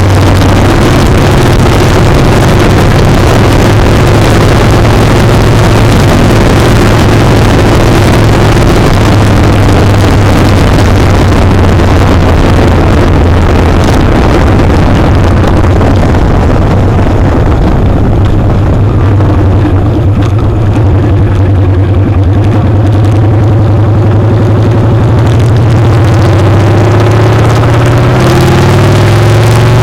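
Motorcycle engine running at speed with heavy wind noise on the microphone. Partway through, the wind noise eases as the bike slows, then the engine pitch rises as it accelerates near the end.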